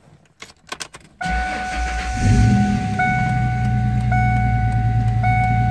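A few clicks of the ignition, then the 1998 Ford Mustang's engine cranks, catches about two seconds in and settles into a steady idle. A dashboard warning chime sounds about once a second from about three seconds in.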